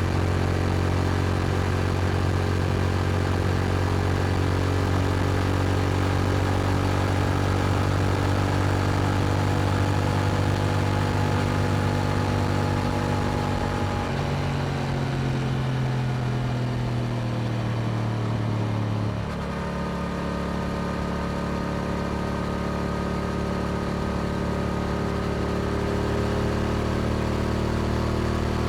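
Yamaha R7 motorcycle's parallel-twin engine through an Akrapovic exhaust, running while the bike is ridden. The note holds steady, falls over several seconds about halfway through, then steadies and climbs slowly again near the end.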